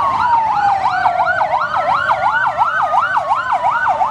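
Toy fire truck's electronic siren sounding loudly: a fast wavering wail, about three rises and falls a second, over a slower tone that glides gradually down.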